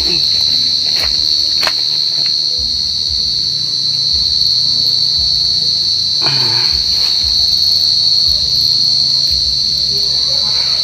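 A large burrowing cricket calling close by, a loud, steady, high-pitched trill without a break, the call that is followed to find its burrow. A brief rustling noise about six seconds in.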